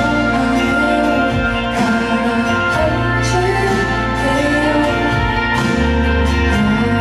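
Live pop song performance: a woman singing over instrumental accompaniment with sustained bass notes.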